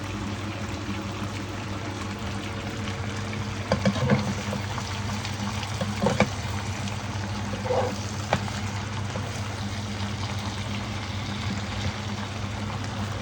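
Milk being poured into a pot of fish simmering in tomato sauce, over a steady hiss from the cooking pot, with a few light knocks about four, six and eight seconds in.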